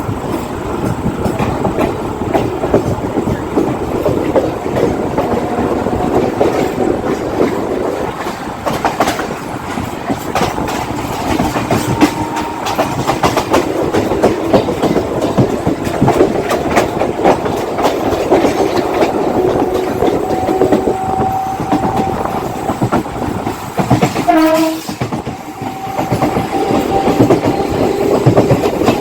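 Mumbai suburban local train, an electric multiple unit, running along the track: a steady rumble with the clickety-clack of wheels over rail joints and faint whining tones. A brief pitched, horn-like sound comes about 24 seconds in.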